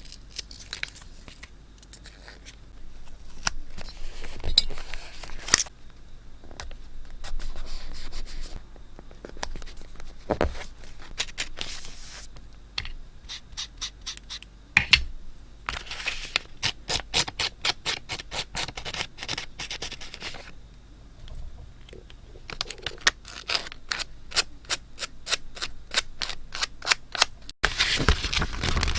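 Close-miked paper handling for scrapbooking: sheets rustling and scraping, with scattered sharp clicks and a couple of runs of quick, evenly spaced ticks. It breaks off suddenly near the end and resumes as louder paper rustling.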